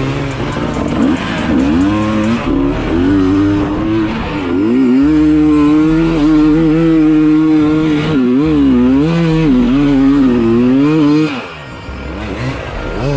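Dirt bike engine revving up and down over and over, its pitch rising and falling in quick swells. It dips briefly near the end before picking up again.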